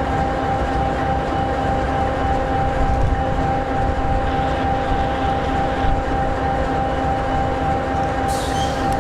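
EMD 16-710G3B, a turbocharged two-stroke V16 diesel in an SD60E locomotive, idling steadily: a deep rumble with a steady whine over it. A brief high hiss of air comes near the end.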